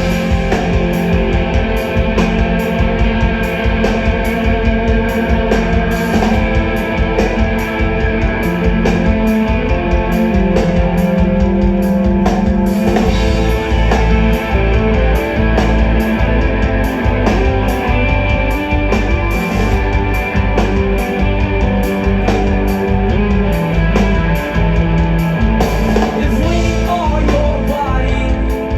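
Live rock band playing loudly: distorted electric guitars, bass and a drum kit keeping a steady beat, in an instrumental stretch of the song.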